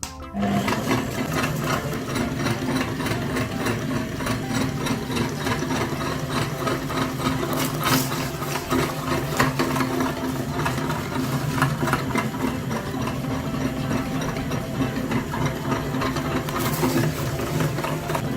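Mini tractor's motor running steadily with a fast, even rattle. It starts abruptly and keeps a constant low hum throughout.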